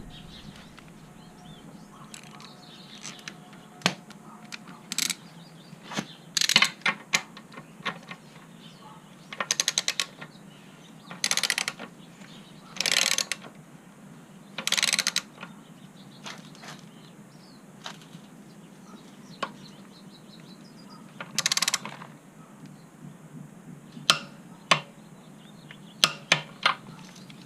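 Ratchet of a torque wrench tightening a motorcycle's rear axle nut to 75 ft-lb. It runs in short strokes of rapid clicking, about five of them, with single sharp clicks in between.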